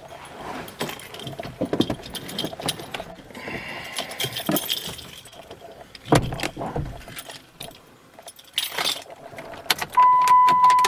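Keys jangling, with clicks and rattles of handling. Near the end a steady, high electronic warning tone starts in the 2007 Dodge Caliber, the car's chime sounding once the key is in.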